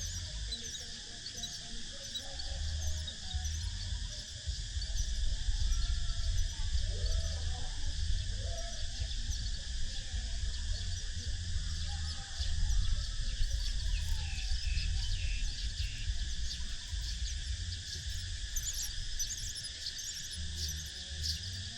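A steady insect chorus of crickets or cicadas, with scattered short, high bird chirps over it and a low, fluctuating rumble underneath.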